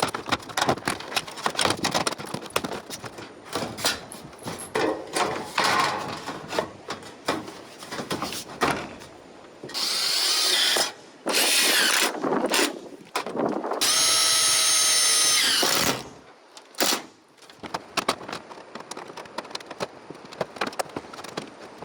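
Power drill running in short bursts, the longest a steady whine lasting about two seconds near the middle, between scattered knocks and clatter of handling tools and materials.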